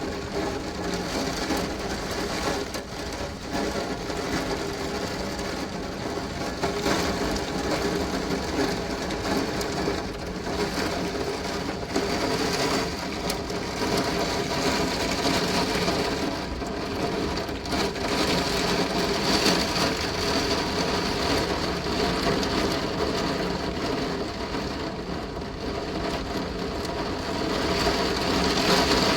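Heavy rain and wind, a steady noise, with a constant mechanical hum running underneath.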